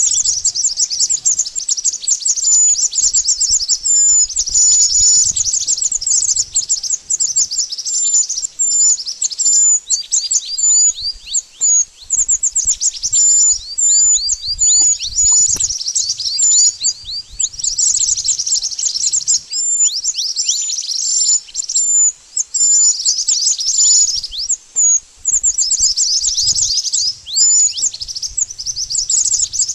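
Mantenan bird song: long runs of rapid, very high-pitched chirps and thin downward-sliding notes, broken only by brief pauses, as played for bird luring.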